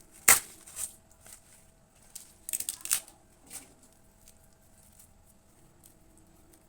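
Kitchen handling sounds: a few sharp clicks and taps with light rustling, the loudest about a third of a second in and a small cluster around the middle, then near quiet.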